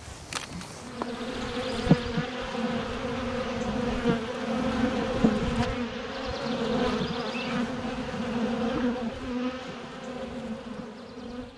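Honeybees buzzing: a steady hum of many wingbeats with a few faint clicks, fading out near the end.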